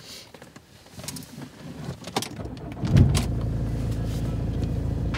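A few small clicks and rustles, then about three seconds in a BMW E46 3 Series engine starts with a short burst and settles into a steady idle, heard from inside the cabin.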